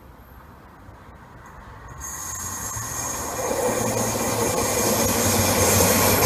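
A Class 142 Pacer diesel multiple unit approaches, its sound growing steadily louder from about two seconds in. A low hum runs under it and a high steady squeal sounds over it.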